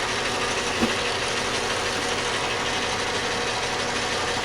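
Metal lathe running steadily under power cross feed, a constant whirr of motor and gearing, with one small tick about a second in.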